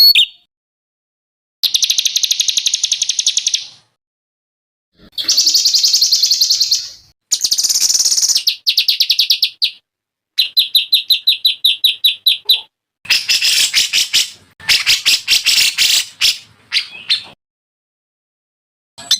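Songbird singing a series of about eight rapid, buzzy trilled phrases, each one to two seconds long, separated by short gaps of complete silence.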